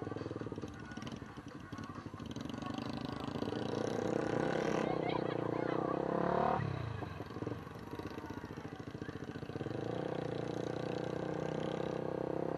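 Vehicle engine running on the move, its pitch climbing for a few seconds and then dropping sharply about six and a half seconds in, as when easing off or changing gear, then running steadily.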